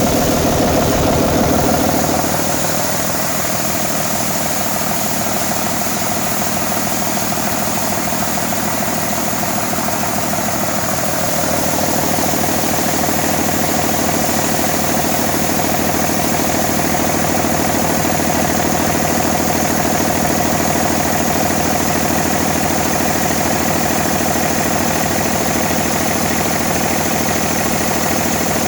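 Cummins ISB 5.9L inline-six turbodiesel engine running steadily during a test run. Its sound drops a little about two seconds in and picks up slightly again around twelve seconds in, typical of engine speed being changed.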